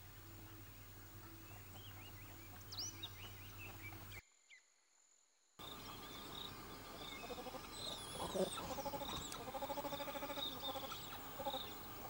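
Wild birds chirping and calling: a few short rising whistles at first, then, after a brief cut to silence about four seconds in, a busier run of repeated high chirps along with lower pulsed animal calls.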